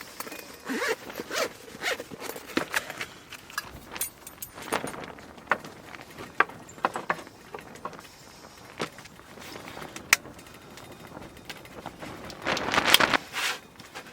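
A zip worked in short pulls among clicks and rustles of gear being handled, with a longer, louder zip stroke near the end.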